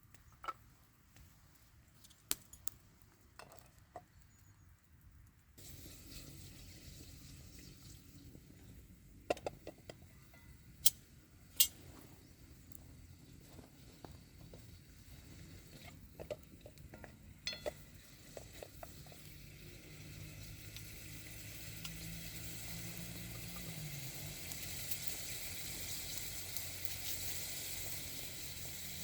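Cooking over a campfire: scattered sharp clicks and knocks of utensils or crackling wood, then a frying sizzle that grows steadily louder over the last third.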